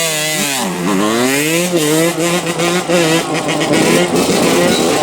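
125cc two-stroke motorcycle engine being ridden. The revs dip briefly, climb steadily for about a second, then rise and fall with the throttle.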